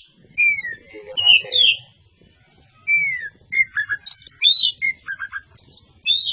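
Oriental magpie-robin (kacer) singing: phrases of clear whistled notes and downward slurs, with quick repeated notes later on and a short pause about two seconds in.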